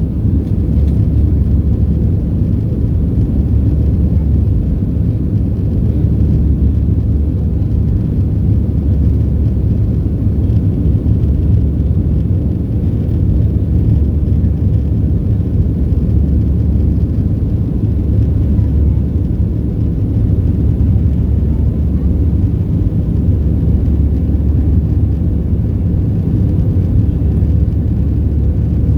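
Steady low rumble of a Boeing 737-700's CFM56 engines and airflow heard inside the passenger cabin, even throughout with no sudden changes.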